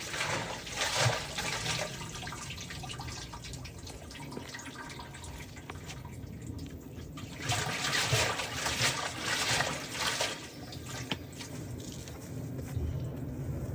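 Water from a Miele washing machine with a drain fault, being drained by hand, pouring and splashing, with two louder surges: one at the start and one from about eight seconds in.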